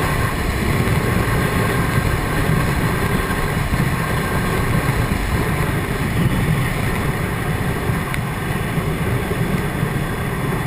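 Steady wind rush and buffeting around a motorcycle rider's helmet at road speed, with the Triumph Tiger 800XC's engine running beneath.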